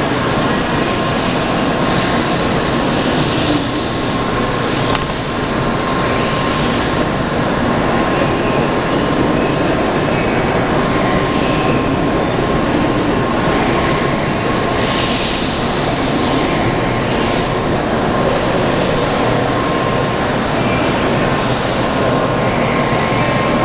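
JR West N700 series 7000-number Shinkansen train running out of the station, a steady rumble of wheels and traction equipment with a thin steady tone running through it. A few brief high hissing surges come about two-thirds of the way in.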